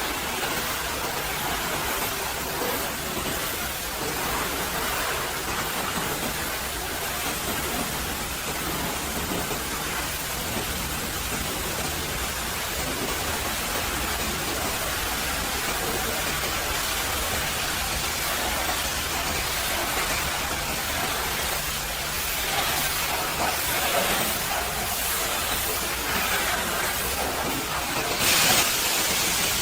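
Steady hiss of a pressure washer's water jet spraying onto a truck, briefly louder near the end.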